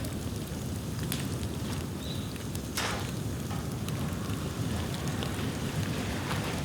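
Dry bamboo burning in an open bonfire: a steady low rumble with scattered crackles and sharp pops, the loudest pop about three seconds in. A brief high whistle sounds about two seconds in.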